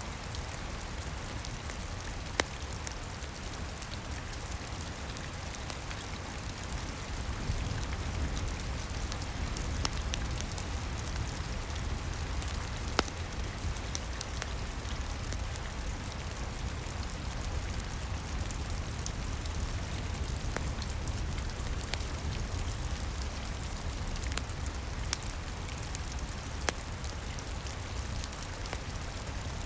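Steady rain with a deep low rumble, mixed with the scattered sharp crackles and pops of a wood fire burning in a fireplace.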